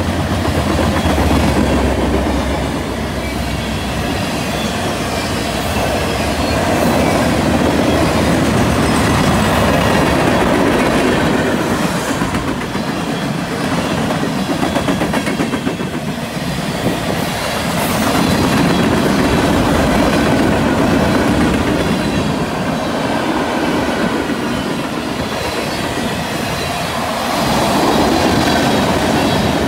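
Freight cars of a passing freight train (covered hoppers and tank cars) rolling by close to the track: a continuous rumble with wheels clattering on the rails, swelling and easing as the cars go past.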